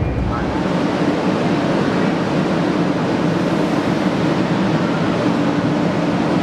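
Steady rushing noise with a constant low hum from a 500 Series Shinkansen train.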